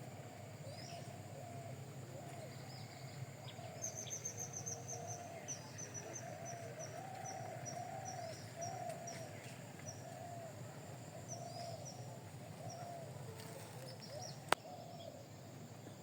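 Birds calling: quick high chirps in a run through the middle, over a lower call repeated about twice a second. A single sharp click comes near the end.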